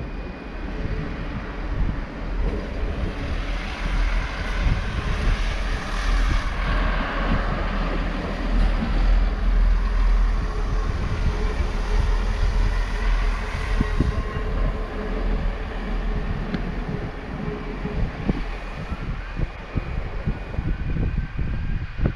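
Diesel train moving through the station: a steady low engine and wheel rumble, with faint rising and falling higher tones in the middle.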